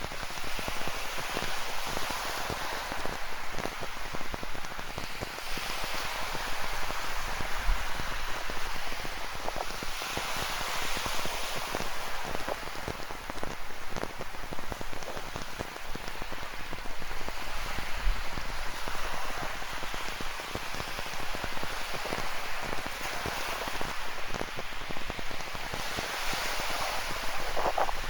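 Steady rain falling, with many small drop impacts, over the wash of ocean surf that swells and eases every few seconds.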